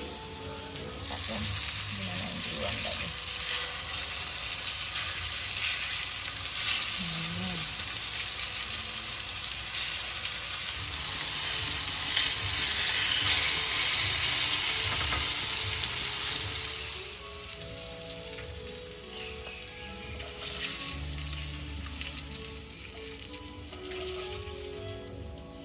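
Dory fish pieces sizzling as they fry in shallow oil in a pan. The sizzle swells about a second in, is loudest around the middle, and dies down after about two-thirds of the way through.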